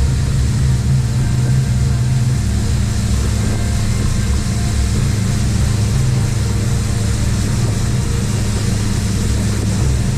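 Boat motor running steadily under way, a loud even drone with no change in pitch.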